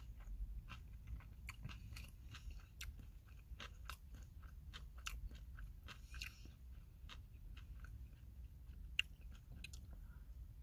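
A person chewing gimbap close to the microphone, with many short, irregular wet mouth clicks and smacks.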